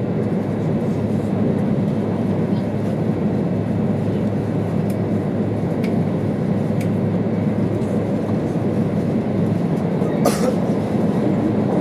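An E2 series Shinkansen running at speed, heard inside the passenger cabin as a steady low rumble. A few faint ticks come around the middle, and a brief hiss about ten seconds in.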